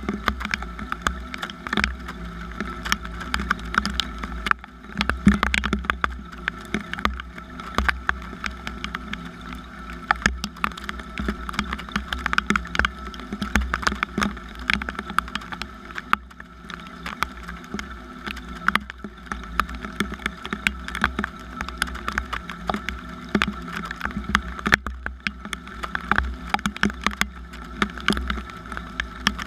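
Rain falling: many sharp, irregular drop impacts close by, over a steady low rumble.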